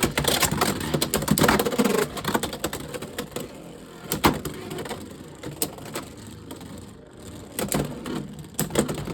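Two Beyblade X spinning tops whirring and clashing in a plastic stadium: a dense clatter of collisions for about the first two seconds, then a steadier, quieter spinning hiss broken by occasional sharp clacks.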